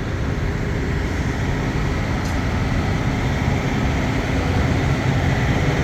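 Semi-truck diesel engine running steadily with a low drone that grows slightly louder.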